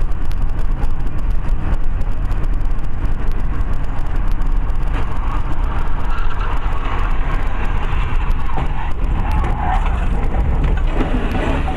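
Steady, loud road and engine rumble of a moving car, heard from inside the cabin through a dashcam microphone.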